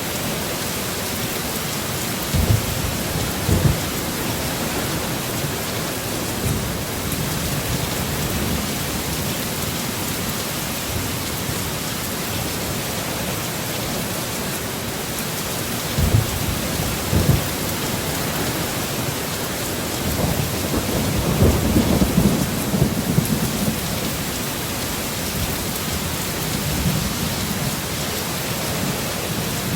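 Heavy, steady rain with low rumbles of thunder rolling in three times: briefly about two seconds in, again about sixteen seconds in, and longest about twenty seconds in.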